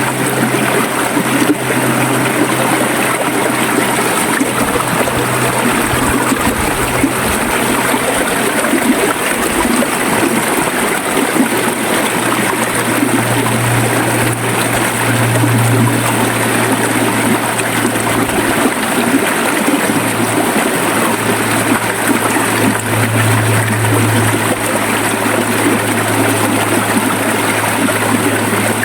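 River water flowing steadily, a continuous rush with gurgling, with a faint low hum underneath.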